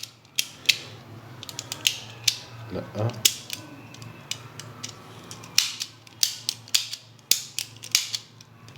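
Irregular sharp clicks and clacks of a stand fan's mechanical parts being worked by hand, which the repairman finds working but wanting oil.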